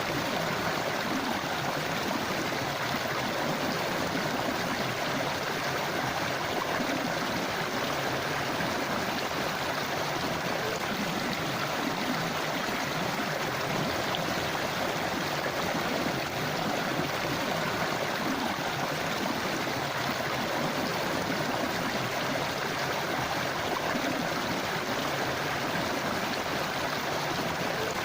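A forest river flowing steadily over stones, a continuous rushing and gurgling of water.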